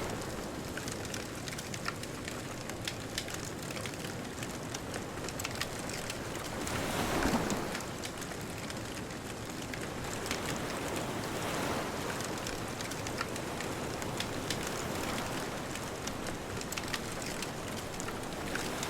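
Wood bonfire crackling and popping in a steady stream of sharp little snaps, over the wash of ocean waves. A wave swells up about seven seconds in and is the loudest moment.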